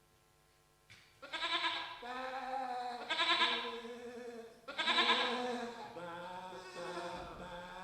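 Sheep bleating: several long baas one after another, beginning after about a second of quiet.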